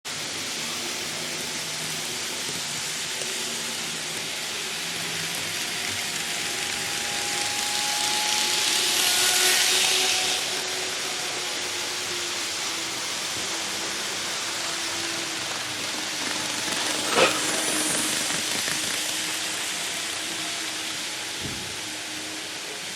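Model train running on its track: a steady hissing rolling noise that swells twice as it passes close, with one sharp click about seventeen seconds in.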